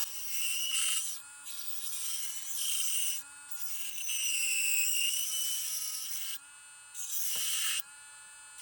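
Small handheld rotary tool running steadily with a high motor whine, its bit grinding away plastic inside a scale model part in several passes of about a second each; the motor's pitch dips slightly as the bit bears in.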